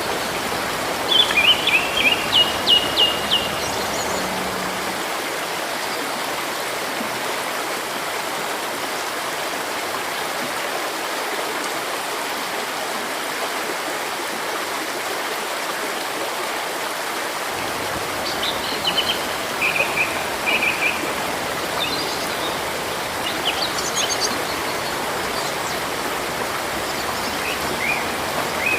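Steady rush of a flowing river with birds calling over it: a quick run of short, repeated chirps about a second in, and scattered chirps and short phrases in the second half.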